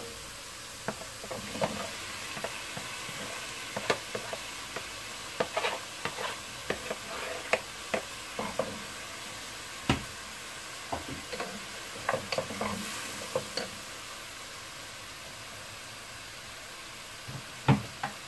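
Chopped tomatoes and onions frying in butter in a non-stick pot, a steady sizzle. A wooden spoon knocks and scrapes against the pot as the vegetables are stirred, the knocks coming thickly through the first two-thirds and only a couple near the end.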